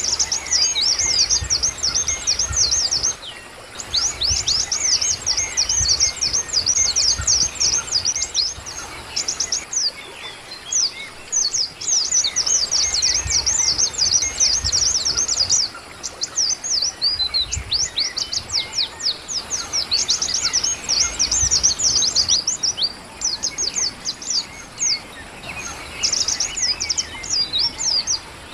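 A small songbird singing long runs of rapid, high, thin down-slurred notes, phrase after phrase with short pauses between.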